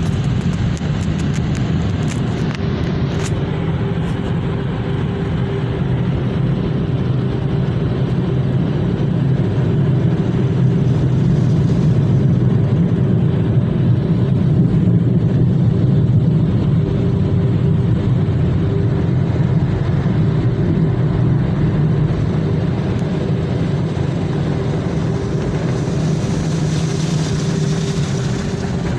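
A motor running steadily: a constant low drone with a faint steady hum above it.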